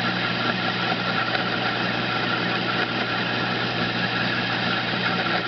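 Homemade metal lathe running steadily: a constant hum with steady higher whining tones above it.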